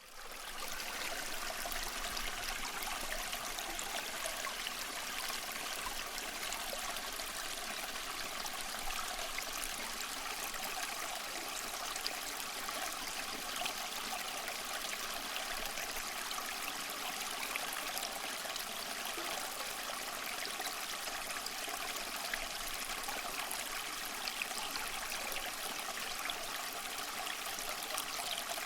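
Small cement tabletop water fountain running: water steadily trickling and splashing down over the cement into its basin.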